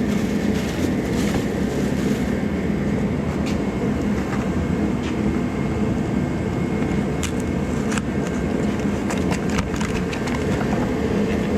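Truck engine running steadily, with a few light clicks and taps about two-thirds of the way through.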